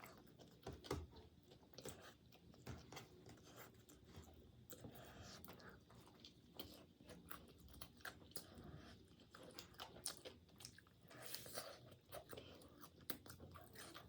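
Soft, close-miked chewing and crunching of food, with many small irregular mouth clicks.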